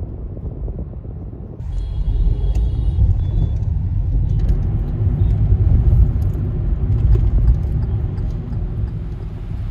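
Low, steady rumble of a moving vehicle, growing louder about a second and a half in.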